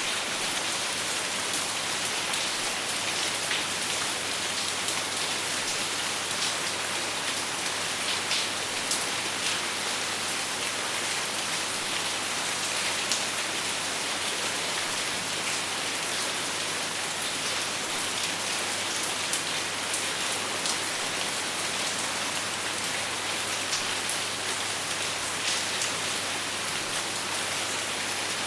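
Steady rain falling, an even hiss with many small sharp drop hits scattered through it, and no thunder.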